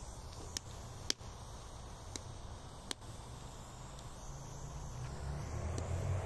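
Campfire of pine needles and branches crackling: a few sharp, irregular pops over a low steady rumble that grows louder near the end.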